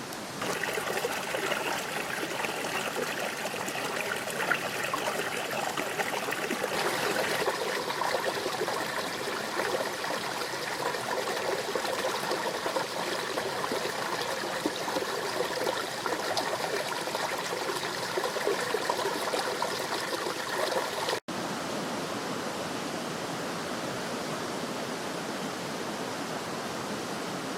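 Small stream running: a steady rush of flowing water, broken by a brief dropout about two-thirds of the way through, after which the water is a little quieter.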